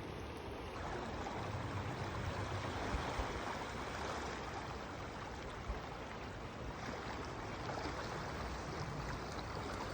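Rushing water of a fast-flowing river at Great Falls, a steady wash of noise.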